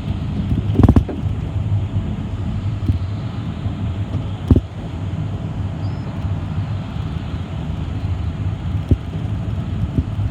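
City bus in motion, heard from inside the cabin: a steady low engine and road rumble, with sharp knocks of the body or fittings about a second in and again midway, as over bumps.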